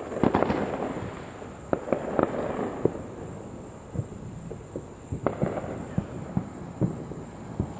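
Neighbourhood fireworks and firecrackers going off: scattered sharp bangs and pops at irregular intervals, each with a short echo. The densest burst comes right at the start.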